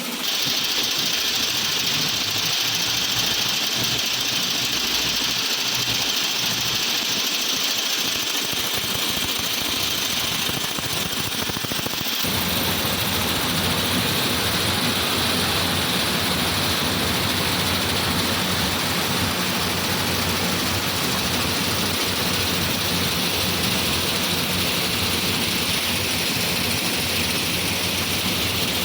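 Tractor engine running steadily; about twelve seconds in, its low note becomes stronger and stays that way.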